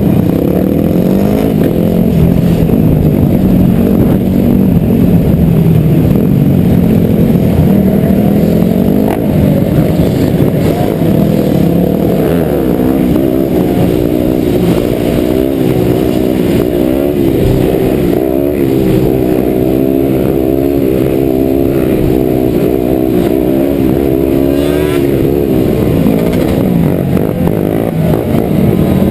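Dirt bike engines running and revving, their pitch repeatedly rising and falling.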